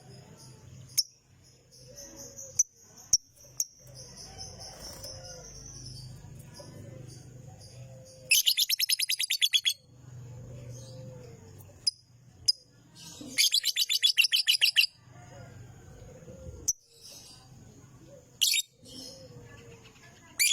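Lovebird chattering: two loud trills of fast repeated high notes, roughly ten a second and each about a second and a half long, about eight and thirteen seconds in, with scattered sharp chirps and a thin steady high whistle between them.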